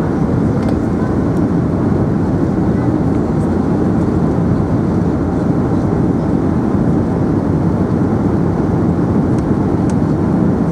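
Steady, loud cabin noise inside an Airbus A380: an even rumble of engines and airflow with no distinct events.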